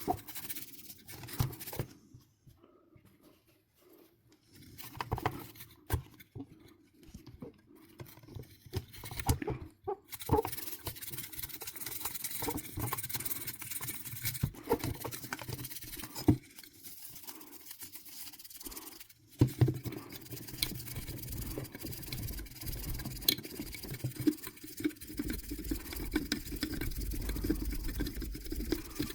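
Close-up handling of small hardware parts: irregular scratching, rubbing and small clicks. From about ten seconds in, a steady hiss runs under continual rubbing.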